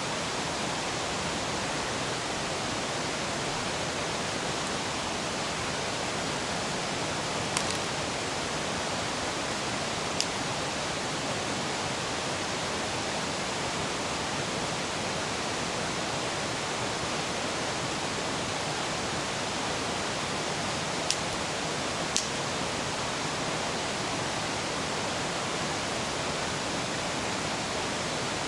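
River rushing steadily, a constant full hiss of flowing water. Four short sharp pops break through it, two about a third of the way in and two about three quarters of the way in.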